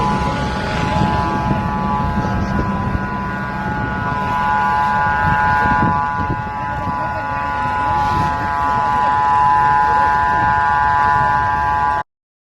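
Helicopter turbine engine running: a steady high whine over a low rumble, cutting off abruptly near the end.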